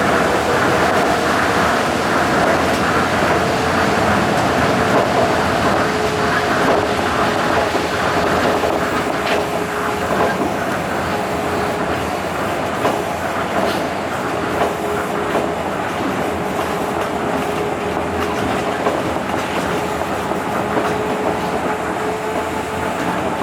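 Tokyo Monorail train running at speed on its rubber tyres: a steady rolling rumble with an even motor whine, and a few light knocks.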